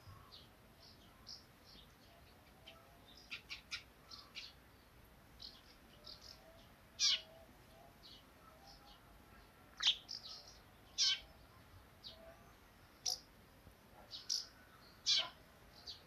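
Small birds chirping: short, high chirps come irregularly throughout, with a handful of louder single chirps a second or two apart in the second half.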